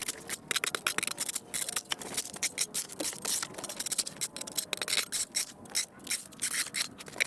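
Ice being scraped and chipped off a stoop: rapid, scratchy scraping strokes, several a second.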